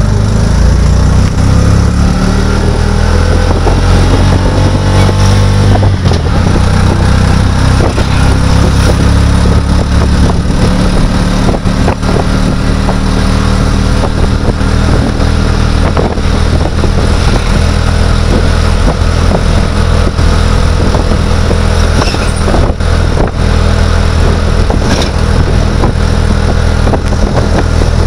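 A motor vehicle's engine running loud and steady while driving, picking up speed with a rising pitch in the first couple of seconds, with scattered knocks and rattles from the road.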